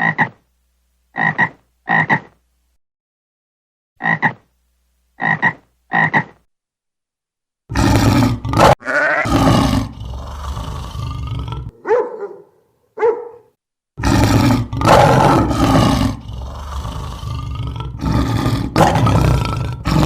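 Animal calls: six short pitched calls in the first six seconds, then longer, louder, rougher calls with short breaks.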